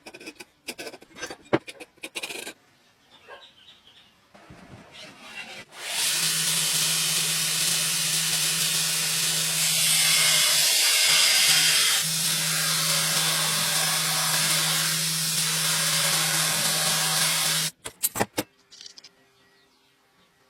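A few knocks and clatter of metal being handled, then a workshop machine starts suddenly and runs for about twelve seconds with a steady hum under a loud hiss before cutting off, followed by a few more knocks.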